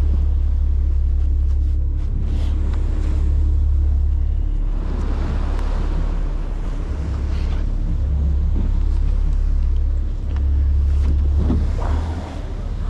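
Wind buffeting the microphone over a steady low rumble, swelling and easing in gusts, with a faint steady hum in the first few seconds.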